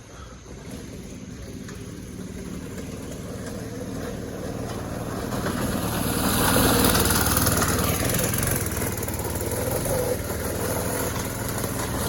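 Go-kart's small engine running, growing louder over the first six seconds or so, then holding steady.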